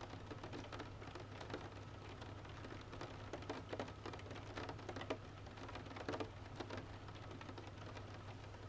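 Steady rain with raindrops striking a hard surface in irregular, sharp drips. A low steady hum runs underneath.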